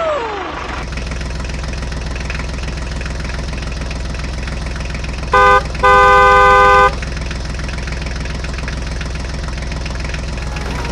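Tractor engine running steadily with a rapid, even firing beat. About halfway through the horn honks twice, a short honk and then a longer one of about a second.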